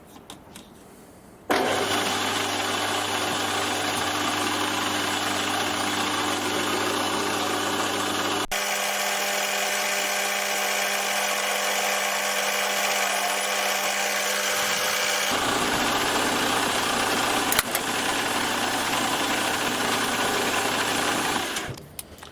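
A workshop machine tool's electric motor runs steadily, with a dense whirr over a humming tone; it starts suddenly, its low hum drops away for several seconds in the middle and then returns, and it stops shortly before the end, with one sharp click along the way.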